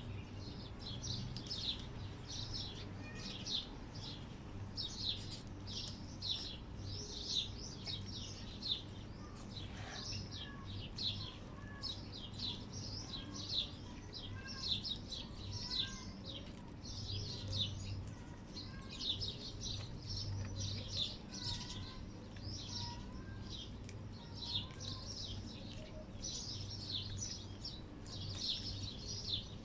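Small birds chirping continuously, a busy chatter of many short, high chirps, over a faint low steady hum.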